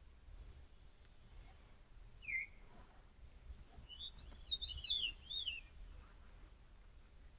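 A songbird singing: a single short note about two seconds in, then a phrase of quick rising-and-falling notes in the middle, over a faint low rumble.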